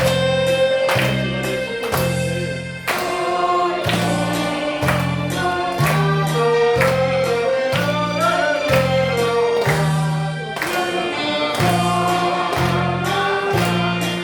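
Saxophone playing a melody over a backing track with a steady, regularly pulsing bass line and drum beat.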